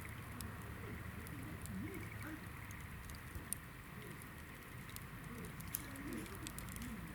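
Campfire of hinoki logs burning with light, scattered crackling over a low steady rumble, with two sharper pops in the middle.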